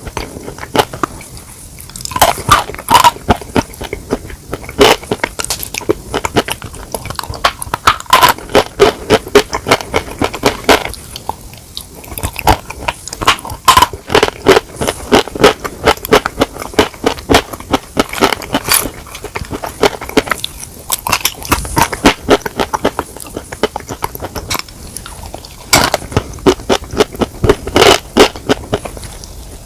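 Close-miked crunching bites and chewing of chicken, dense runs of sharp crackles with a few short pauses.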